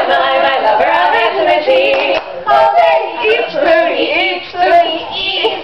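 Women's voices singing a song.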